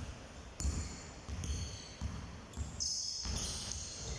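A ball bouncing repeatedly on a hard floor in a large hall, about two thumps a second, with a short high squeak about three seconds in.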